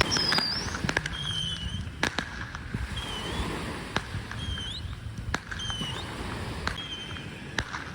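Fireworks popping sparsely: scattered sharp cracks a second or so apart, with short high squeaky chirps over a low background rumble.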